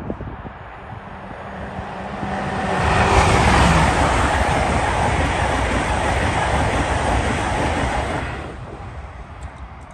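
LNER Azuma high-speed train passing at speed: the rush of the train builds from about two seconds in, holds loud for about five seconds as the carriages go by, then falls away quickly near the end.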